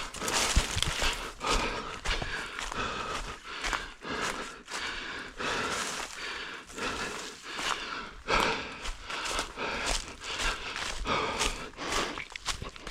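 Footsteps of a runner moving over forest ground and brushing through vegetation, uneven in rhythm, with breathing heard close to the microphone.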